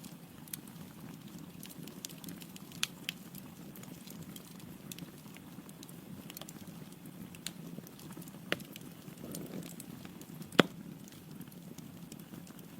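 Wood fire burning in a fireplace: a steady low hiss of flames with scattered crackles and sharp pops from the logs, the loudest pop about ten and a half seconds in.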